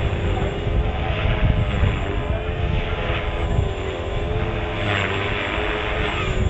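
RC helicopter in flight: its engine and rotor whine with a pitch that wavers up and down as it manoeuvres. Heavy wind buffets the microphone with a low rumble, and hissy swells come and go.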